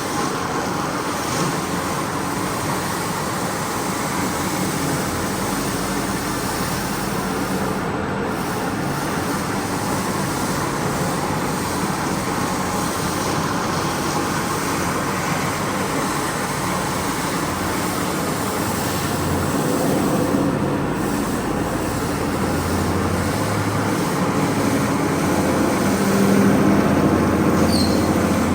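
Carpet-cleaning machinery running steadily, a continuous motor and rushing noise that grows a little louder and deeper near the end.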